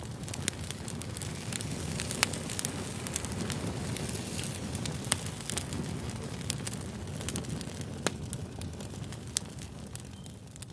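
Fire crackling: a steady low rush of flames with frequent sharp pops and snaps, a few louder than the rest.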